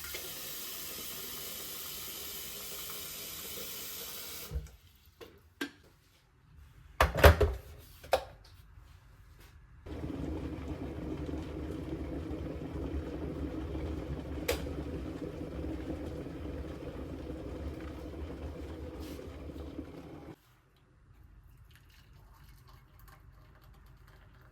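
Water running from a tap for a few seconds, then a few knocks and clatters, then a longer steady stretch of running water that cuts off suddenly.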